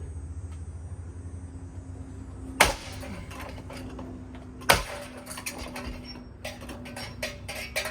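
Battered Hampton Bay Waterton ceiling fan's motor humming steadily, still partly working after being smashed, with two loud bangs about two and a half and four and a half seconds in, and lighter clattering knocks near the end.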